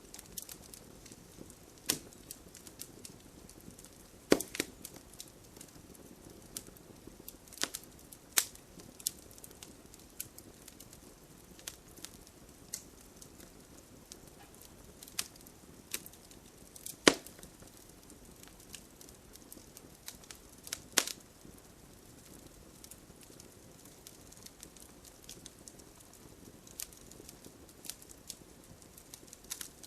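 Wood campfire crackling: irregular sharp pops and snaps over a soft steady hiss of burning, with a few louder cracks scattered through.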